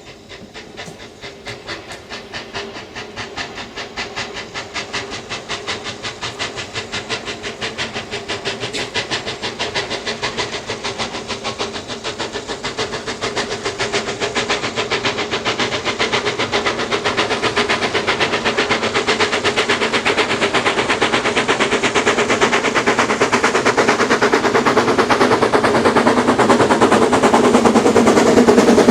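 Steam locomotive approaching under power, its exhaust beating rapidly and evenly and growing steadily louder as it nears.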